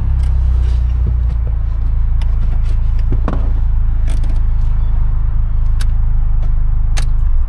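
Mitsubishi Lancer Evolution X's turbocharged 2.0-litre four-cylinder idling with a steady low hum, heard from inside the cabin, with a few light clicks. The engine is switched off near the end and the hum stops abruptly.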